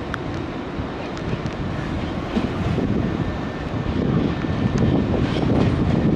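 Nankai electric train running along the platform, a steady rumble with wheels clicking over rail joints, growing louder in the second half.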